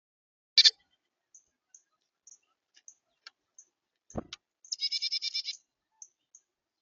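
A sharp knock about half a second in and a duller thump a little after four seconds, with faint high ticks between. A short, rapid, buzzy chattering call of about ten quick pulses follows near the end.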